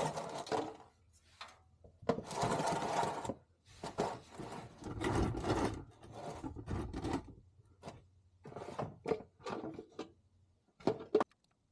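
13mm wrench loosening an oil drain plug: several bursts of rapid metallic clicking and scraping, then a run of short sharp clicks near the end.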